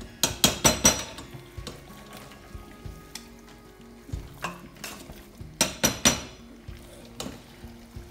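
Steel spoon scraping and clinking against a steel pot as marinated mutton is stirred and turned in hot oil, with a faint sizzle between the strokes. The strokes come in clusters: several quick ones about half a second in, then a few more around the sixth second.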